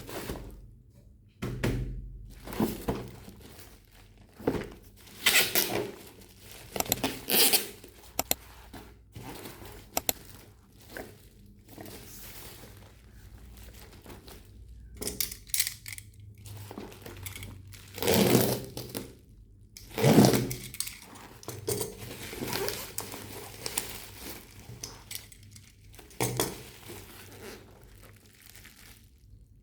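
Toy packaging being opened by hand: irregular rustling, crinkling and tearing of plastic and cardboard, with occasional thunks as pieces are handled and set down.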